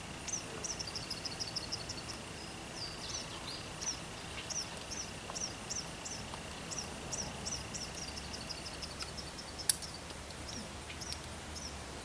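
Small birds chirping in quick, repeated high notes, over a steady high-pitched insect drone that stops about three-quarters of the way through. A single sharp click comes near the end.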